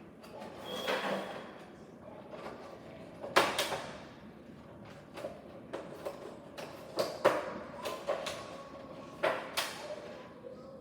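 Scattered knocks, clacks and rustling of objects being handled and set down, like doors or drawers being moved. The loudest knock comes about three and a half seconds in, and a few sharper clacks follow later.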